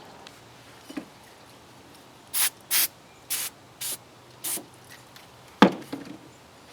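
Aerosol brake cleaner sprayed in five short hissing bursts, cleaning coolant off a battery ground cable. A small knock comes about a second in, and a sharp knock near the end.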